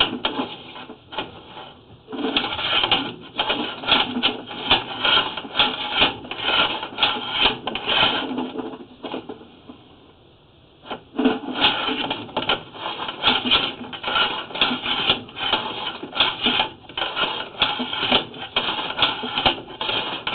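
Flex-shaft drain cleaning machine spinning its chain cutter inside a clay sewer line, cutting tree roots stuck in the pipe: a fast mechanical rattle that stops for a couple of seconds about nine seconds in, then starts again.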